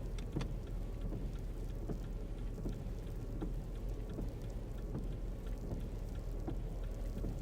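Car interior while driving: a steady low rumble of engine and road noise, with scattered light ticks of rain or sleet hitting the car.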